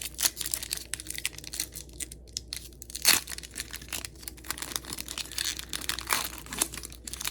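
Foil booster-pack wrappers crinkling and tearing as Pokémon trading card packs are opened and handled, with irregular crackles and a louder sharp crack about three seconds in.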